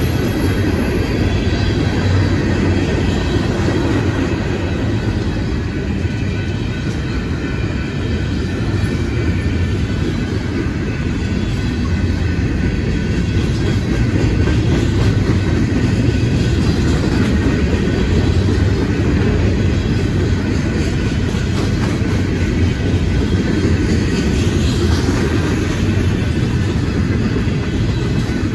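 Freight train of open-top gondola cars rolling steadily past: a continuous rumble and rattle of steel wheels on the rails, with some faint high-pitched ringing over it.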